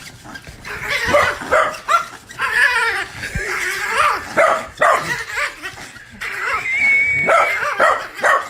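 A dog vocalizing almost without pause: a string of short calls that rise and fall in pitch, with one held higher note near the end.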